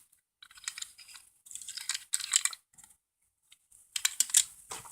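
Small hard plastic toys clicking and clattering against each other as they are handled and sorted, in several short flurries of quick clicks.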